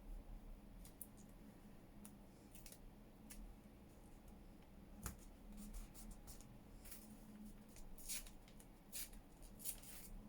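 Faint handling of paper and washi tape: scattered short, crisp rustles and ticks, with one sharper tap about five seconds in and a few louder rustles near the end.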